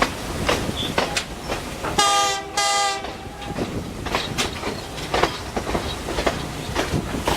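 Passenger train rolling along the track with irregular clicks over the rail joints and a low rumble. About two seconds in, the locomotive horn sounds two short blasts.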